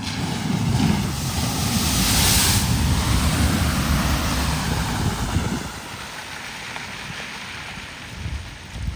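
A vehicle driving through floodwater: a low engine and tyre rumble with a rush of water spray, building over the first second and easing off about five and a half seconds in.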